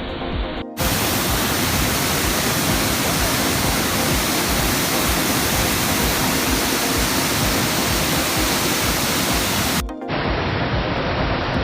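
Waterfall: water pouring steadily, a loud even rush. It cuts abruptly about a second in and again near the end, where it turns to a duller rush with faint background music.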